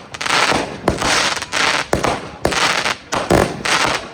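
Consumer fireworks going off in quick succession: about six sharp bangs, each trailed by a hissing spray of noise lasting about half a second.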